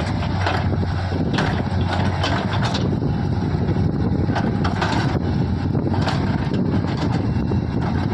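A heavy diesel engine of earthmoving machinery running steadily, with sharp knocks and clanks now and then.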